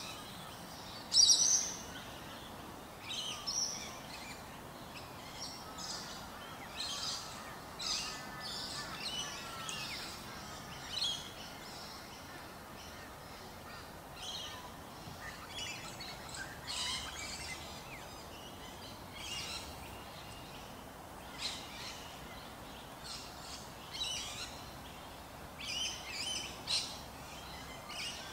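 Small birds chirping: many short, high calls scattered through the whole stretch, with one loud, sharp call about a second in, over a steady background noise.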